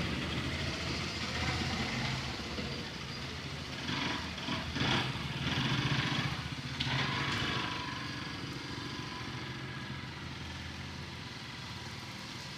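Bajaj Pulsar RS200 with an aftermarket exhaust, its engine idling steadily, with a few brief swells about four to seven seconds in, then settling lower.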